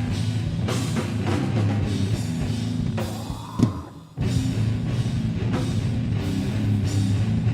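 Heavy metal band playing live: low, chugging distorted guitars and bass with a full drum kit, in the song's breakdown. A little past halfway the band cuts out briefly under a sliding guitar note, then comes crashing back in.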